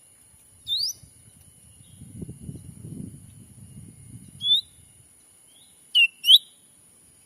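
Short, high whistled bird calls, each a quick upward sweep. There is one under a second in, one at about four and a half seconds, and a fast pair of dipping-then-rising whistles near six seconds. A faint low rumble sits in the middle, under a steady high hiss.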